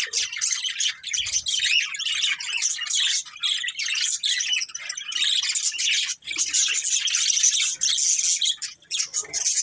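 Several budgerigars chirping and chattering at once in a dense, continuous stream of high chirps.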